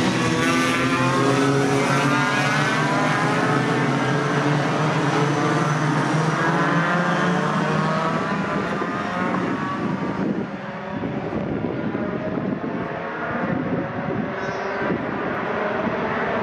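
Racing pickup trucks' engines going by at speed, their engine notes shifting in pitch as they pass. After about ten seconds this gives way to a quieter, rougher engine noise from further off.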